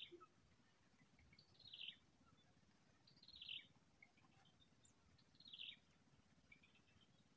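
Faint bird call, a short falling chirp repeated about every two seconds against near silence.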